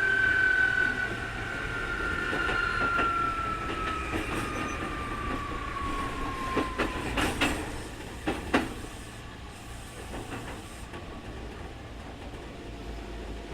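Keikyu 2000 series electric train heard from on board: the high whine known as the 'jet sound' falls steadily in pitch for about seven seconds as the train slows, then stops. This whine is the abnormal noise this particular car is known for. A few sharp clunks follow about seven to eight and a half seconds in, and then only a quieter rolling rumble is left.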